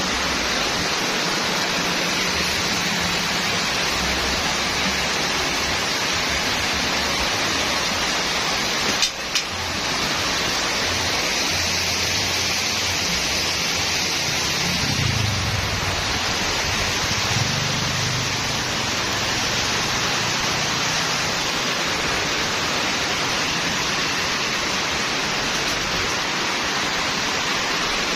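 Heavy rain pouring down steadily, a dense even hiss, with a single short knock about a third of the way through.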